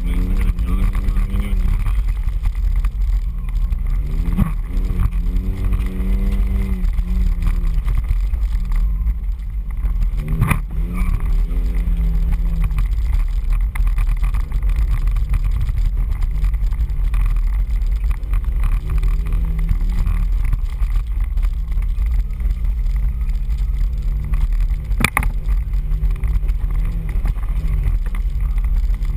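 Off-road 4x4's engine revving up and down as it drives a rough dirt trail, heard from a hood-mounted camera with a heavy low rumble. Two sharp knocks, one about a third of the way through and another near the end.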